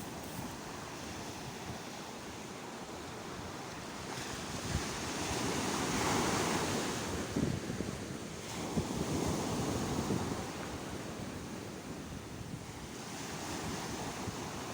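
Sea waves breaking and washing on the shore, the surf swelling to a peak about six seconds in and again a few seconds later, with wind buffeting the microphone.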